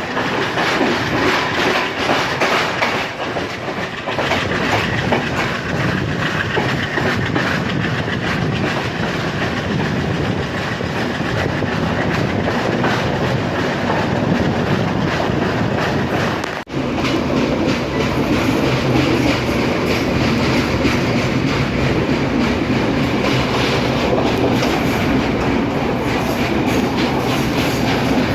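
Trincomalee Express passenger train running on the rails, its wheels clicking over the rail joints with a steady low hum underneath. The sound drops out sharply for a moment about two-thirds of the way through, then carries on as before.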